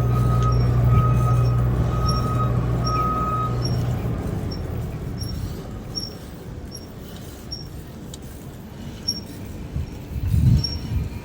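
A large vehicle's engine running close by with a pulsing beep, fading out after about four seconds. An even, faint ticking carries on throughout, and a short low rumble comes near the end.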